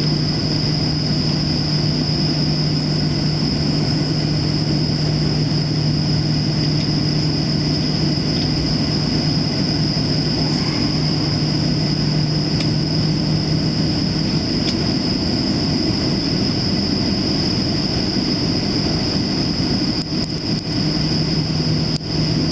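Boeing 737-700 cabin noise: the CFM56 turbofan engines running steadily with a constant high whine and low hum over an even rumble, heard from inside the passenger cabin while the aircraft is on the ground.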